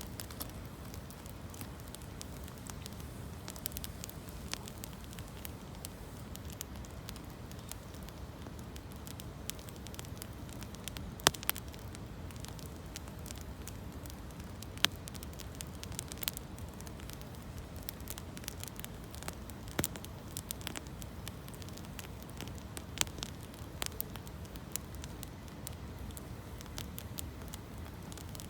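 Campfire of gathered branches crackling, with irregular sharp pops, the loudest about eleven seconds in and again a few seconds later, over a low steady rumble.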